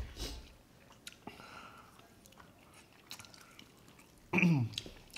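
Close-miked chewing and mouth sounds of people eating chicken wings: small wet smacks and clicks. About four seconds in, a short vocal sound falls in pitch, the loudest moment.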